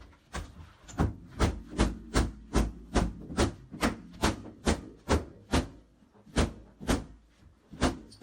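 A steady series of sharp knocks or blows, about two to three a second and nearly twenty in all, with a brief pause around six seconds in.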